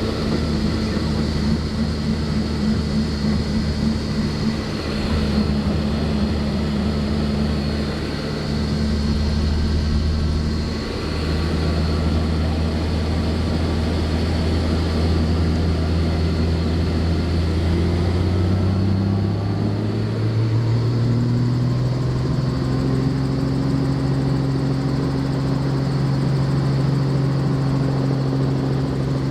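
Helicopter engine and rotor running up from inside the cabin: a steady low hum that climbs in pitch about twenty seconds in and then holds at the higher pitch as the rotor comes up to speed.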